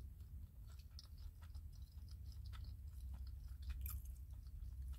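Close-up chewing of a mouthful of rice and beans: soft, irregular wet mouth clicks over a steady low hum.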